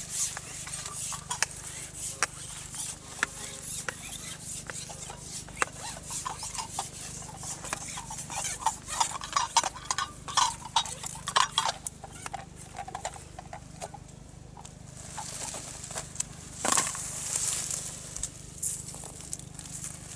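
Irregular light clicks and clinks of small objects being handled, with some faint chirping tones midway.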